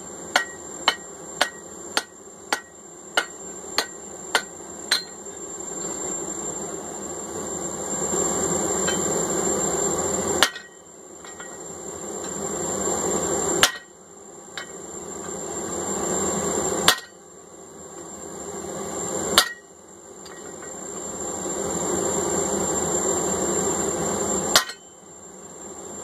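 Forging-hammer blows on a hot tool-steel hammer eye punch at the anvil: about nine quick strikes, roughly two a second, then five single sharp blows spaced several seconds apart. Between the single blows a steady rushing noise swells and is cut off at each blow.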